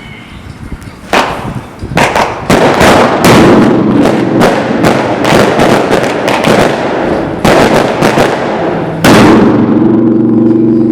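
Loud firecracker bangs going off in a rapid, uneven string, about eighteen of them, starting about a second in. One of the loudest comes near the end, after which a steady low tone is heard.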